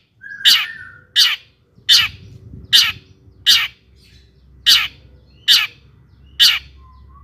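Long-tailed shrike (cendet) calling in a run of short, harsh, rasping notes, about one every 0.8 seconds, eight in all, with a brief whistled note alongside the first.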